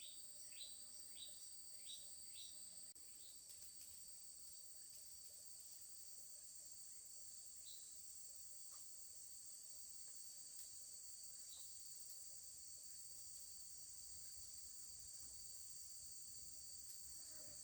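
Faint, steady high-pitched drone of insects. A bird gives four short falling whistles, evenly spaced, in the first few seconds.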